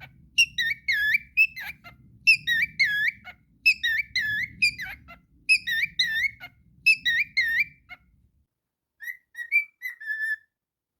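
Cockatiel whistling a song in repeated phrases of swooping notes, a new phrase about every second and a half. After about eight seconds it drops to a few softer, scattered notes.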